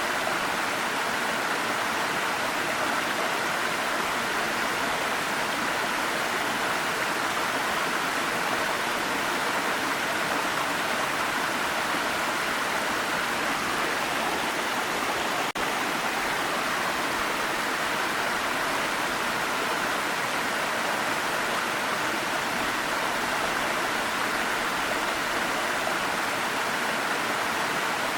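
Waterfall: a steady, unbroken rush of falling water, with a momentary dip in level about halfway through.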